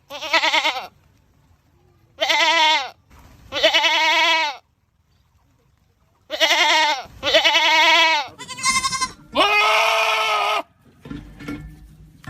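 Goats screaming: about seven loud, wavering bleats, three in the first five seconds, then after a short lull four more in quick succession, one of them higher-pitched.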